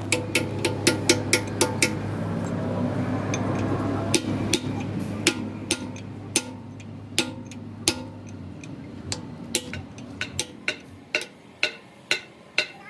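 Hammer striking steel parts, a run of sharp metallic knocks, irregular at first and about two a second near the end. Under them a steady low machine hum dies away about eight seconds in.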